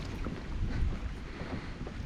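Wind buffeting the microphone in an uneven rumble, with faint water sounds from around a kayak on a river.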